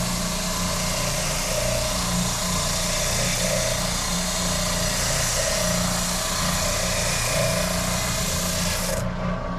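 A woodshop power tool's electric motor running steadily, with a constant hum under a dense hiss. The highest part of the hiss cuts off suddenly about nine seconds in.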